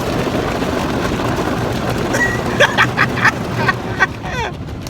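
Automatic car wash heard from inside the car: a steady rush of water spraying on the body, then from about two seconds in a quick run of sharp slaps and knocks against the car, with a few short squeaks.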